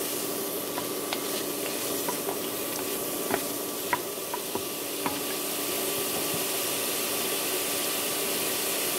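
Diced onion and frozen portobello mushroom pieces sizzling in oil in a pot, with a wooden spoon scraping and knocking against the pot as they are stirred over the first five seconds or so; after that the sizzling goes on alone.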